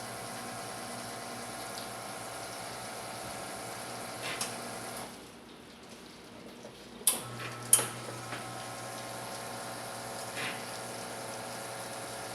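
Nuova Simonelli Aurelia espresso machine running with a steady pump hum and water flowing. About five seconds in the hum stops for about two seconds, then two sharp clicks and it starts again.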